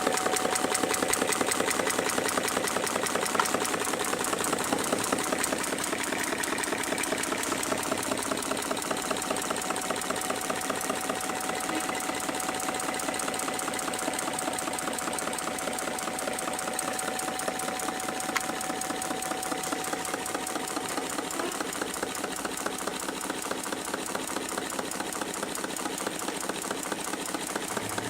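Homemade Stirling hot-air engine running fast: a rapid, even mechanical clatter from its moving parts, getting slowly a little quieter, with a thin steady tone under it.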